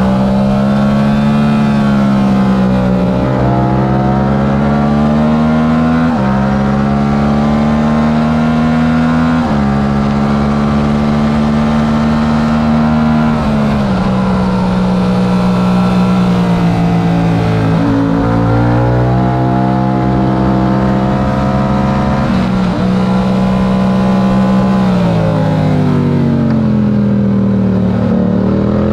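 Stock Yamaha R7's 689 cc parallel-twin engine at racing speed, revving up and dropping sharply in pitch at each upshift several times, then falling in pitch through downshifts near the end.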